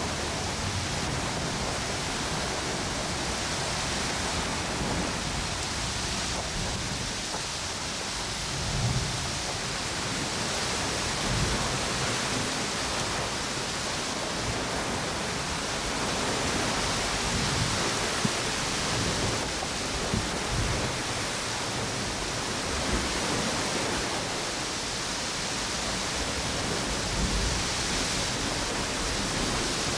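Ocean waves on a beach and strong wind through palm trees: a steady rushing noise with brief low gusts every few seconds.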